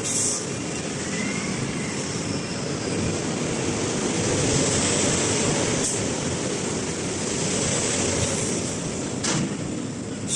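Heavy mining truck running: a steady, noisy mechanical rumble, with a short knock about nine seconds in.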